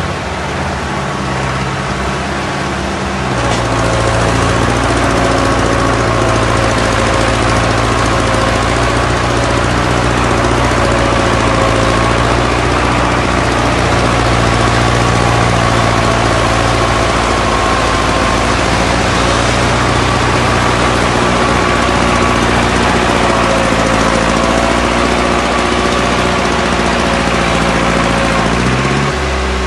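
1955 Fordson tractor engine running steadily. It gets louder about three seconds in, and its pitch rises near the end as it is revved.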